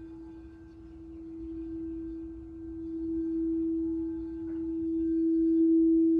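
Singing bowl sounding one steady, held tone that swells gradually louder in slow waves.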